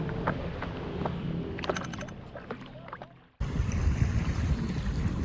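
A few faint knocks that fade away, then an abrupt switch about three and a half seconds in to wind buffeting the microphone over water on the lake.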